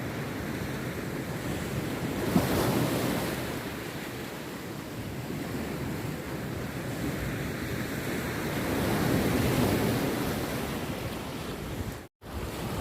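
Rough sea surf breaking on a beach, the wash of the waves swelling twice as breakers come in. The sound cuts out for an instant near the end.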